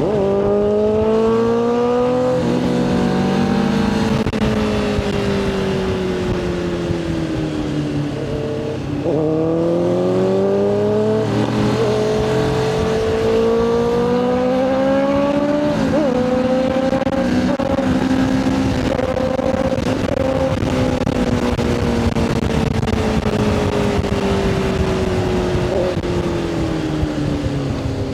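Motorcycle engine heard from on board while riding. Its note climbs under throttle at the start and then falls slowly. It climbs again about nine seconds in, dips briefly near the middle, and then drops gradually as the bike eases off. A steady rush of wind and road noise runs underneath.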